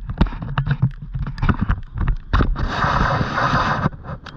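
Handling noise from a GoPro in its waterproof housing: a run of knocks and bumps on the camera, then a rushing noise for about a second and a half, starting about two and a half seconds in.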